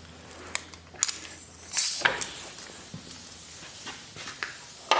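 Scattered metal clinks and knocks of brake parts and tools being handled during a caliper fitting, with a short scraping burst about two seconds in and a sharper knock near the end.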